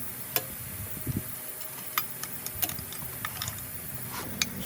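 Irregular sharp clicks and taps, about a dozen light knocks at uneven intervals, typical of hand work with tools and parts on a workbench.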